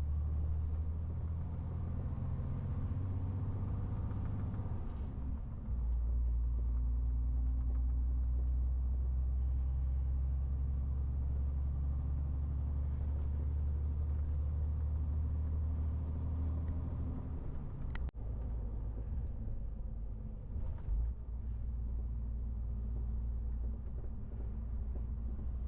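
MAN TGX 18.470 truck's diesel engine running as the truck drives, a steady low drone whose note changes about six seconds in. There is a sharp click about eighteen seconds in, after which the engine's note shifts again.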